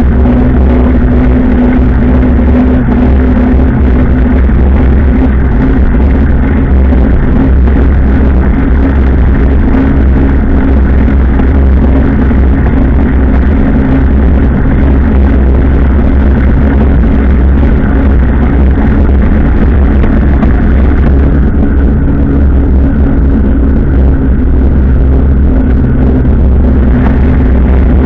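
Motorcycle engine running at a steady cruising speed, a constant low hum with wind noise over it.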